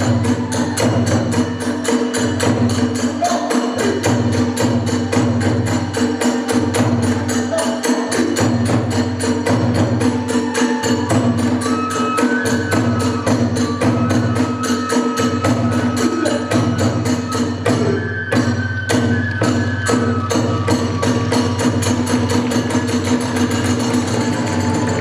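Hiroshima kagura hayashi music: a drum beating under small hand cymbals struck in a fast, unbroken run. About halfway through, a thin high held melody joins in over the percussion.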